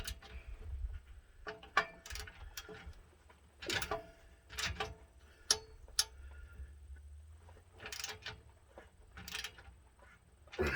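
Wrench working bolts tight: short runs of ratchet clicks and scrapes, with a few sharper metal clinks.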